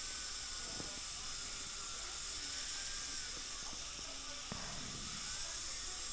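Dental handpiece with a burr grinding through the metal of an implant abutment: a steady hiss with a faint whine that wavers in pitch as the cut loads it. A short click about four and a half seconds in.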